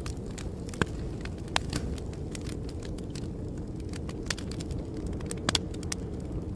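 Wood fire crackling: scattered sharp pops and snaps over a steady low rumble of flames.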